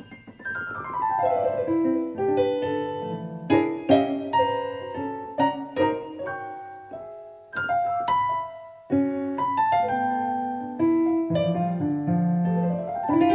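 Piano improvisation: a fast descending run of notes at the start, then scattered single notes and chords with brief pauses, and a fast rising run near the end.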